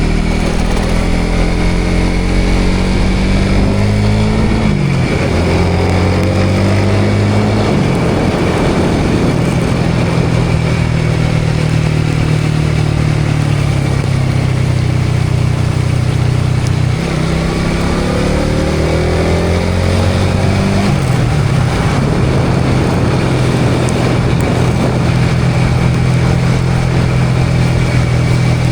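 Motorcycle engine running under load while riding, its pitch climbing and then dropping at each gear change, four times: accelerating up through the gears. Steady wind and road noise runs under it.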